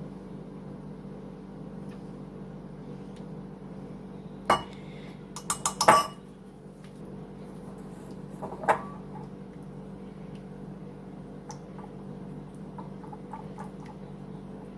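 A utensil clinking against a small bowl while a sauce is mixed: one clink about four seconds in, a quick run of clinks around six seconds, and another near nine seconds, over a steady low hum.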